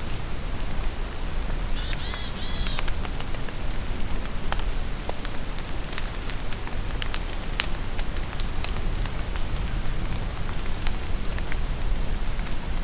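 Steady rain falling in a forest, with many single drops ticking close by. A bird sings a short run of high arching notes about two seconds in, and faint high chirps come and go.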